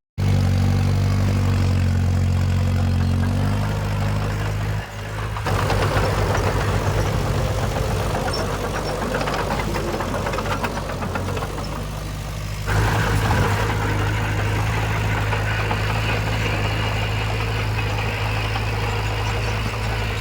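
Diesel engines of heavy earthmoving machinery running steadily, the sound changing abruptly about five seconds in and again about thirteen seconds in.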